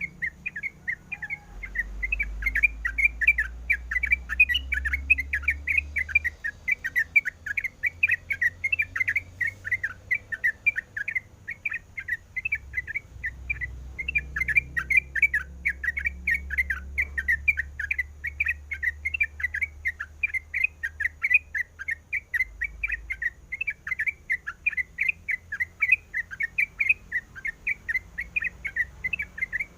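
Yellow-vented bulbul (trucukan) singing a fast, continuous chatter of short, bright notes, about four to five a second, with a brief pause near the middle.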